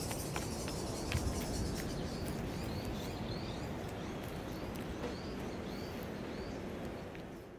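Outdoor garden ambience: a small bird chirping over and over in short high notes, over a steady background hiss, with a low bump of wind or handling about a second in.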